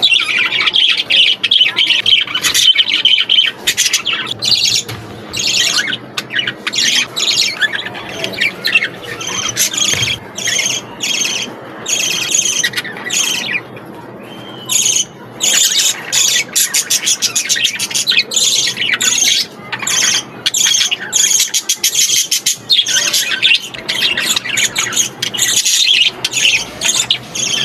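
Several budgerigars chattering, with many rapid, overlapping short chirps and squawks.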